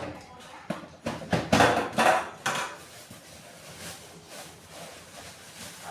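Metal pump parts knocking and clattering as they are handled and fitted during reassembly of an electric water pump, a quick run of sharp knocks in the first couple of seconds, then quieter handling.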